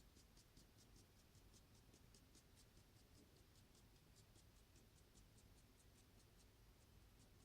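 Near silence: faint room tone with a faint, fast, even ticking, about five ticks a second.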